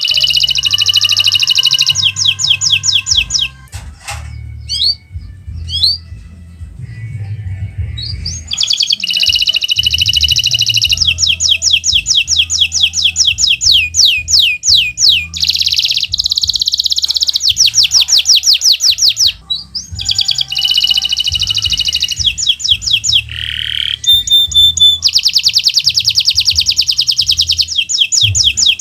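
Kenari Nusantara domestic canary in full song: long, fast, high-pitched trills and rolls, each held for several seconds, with brief pauses and a few short chirps between phrases.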